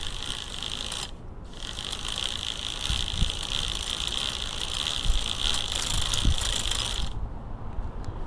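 Bicycle rear hub's freehub pawls buzzing in a rapid, steady clicking as the wheel spins freely, with a short break about a second in before it resumes and then stops near the end.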